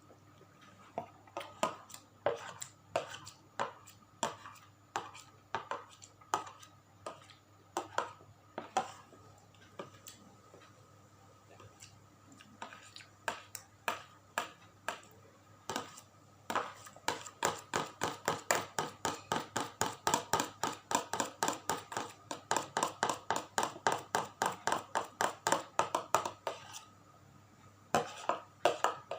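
Close-up chewing of tempeh, crunching with each bite. The chews come slowly and unevenly at first, then settle into a steady run of about three a second for around ten seconds, pause, and start again.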